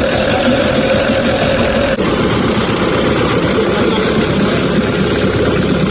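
Boat's outboard motor running steadily under a dense rushing noise.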